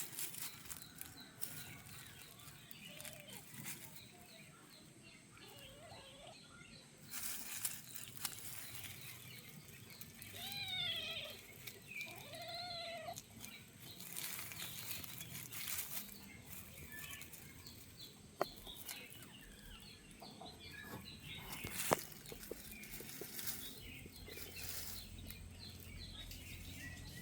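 Two kittens play-fighting: scattered bursts of rustling and scuffling, with a few short high calls rising and falling about ten to thirteen seconds in.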